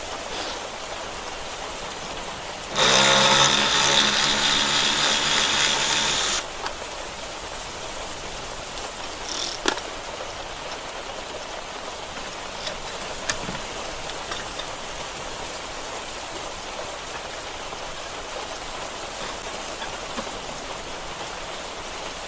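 A power tool, such as a drill or driver, runs steadily at one pitch for about three and a half seconds starting about three seconds in. Around it is a steady hiss of rain, with a couple of small knocks from the work.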